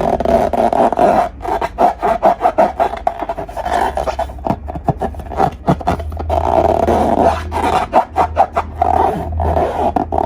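Slime being squeezed and stretched by hand, giving a dense run of quick wet clicks and pops, over a steady low hum.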